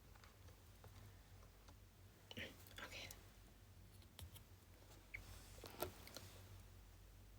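Near silence: a low steady room hum with a few faint scattered clicks and short soft breathy sounds.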